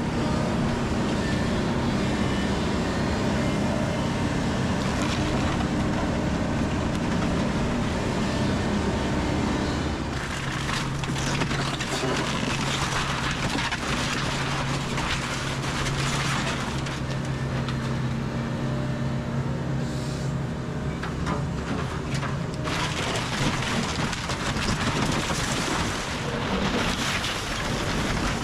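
Kobelco SK210 excavator's diesel engine running steadily under load, and from about ten seconds in the crashing and cracking of the house's wooden structure as the machine tears into it.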